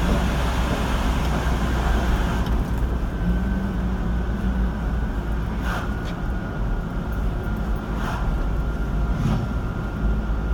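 Car road noise heard from inside a moving car: a steady low rumble of engine and tyres, with a hiss that drops away about two and a half seconds in, and a few faint clicks near the end.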